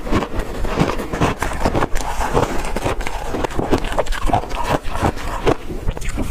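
Ice being chewed close to the microphone: a fast, irregular run of crunches and cracks.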